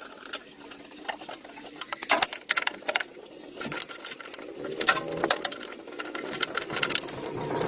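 Rapid mechanical clicking and tapping in irregular runs, with sharper knocks a little after two seconds and about five seconds in.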